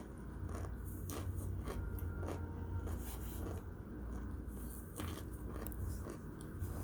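Close-up crunching and chewing of hard, cooked cornstarch chunks: irregular crisp cracks and crunches, several a second, over a low steady hum.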